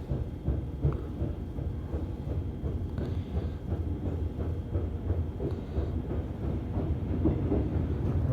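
Suin-Bundang line electric commuter train running on the track, heard from inside the car: a steady low rumble with faint rail clicks, growing a little louder near the end.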